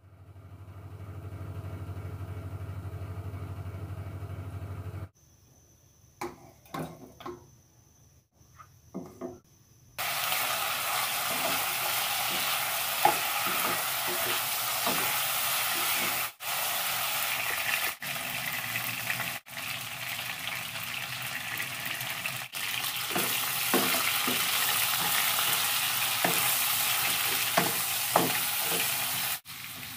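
Chicken pieces sizzling loudly in hot oil in a wok, stirred with a spatula that scrapes and knocks against the pan. The sizzling starts about ten seconds in. Before it there is a low steady hum for about five seconds, then a few scattered clicks and knocks.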